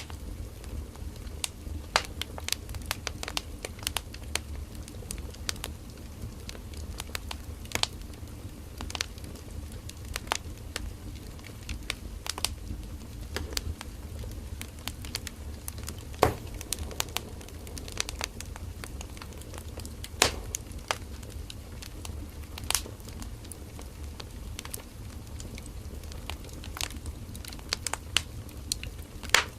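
Firewood burning in an open fire: irregular sharp crackles and pops, a few louder snaps, over a steady low rumble of the flames.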